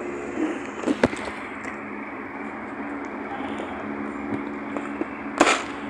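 Bites and chews of a crispy, crunchy snack: a sharp crunch about a second in and a louder one near the end, with small crackles between, over a steady background hum.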